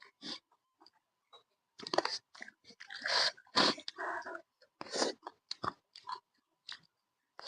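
A person chewing pork in short, irregular bursts of mouth noise, busiest around the middle.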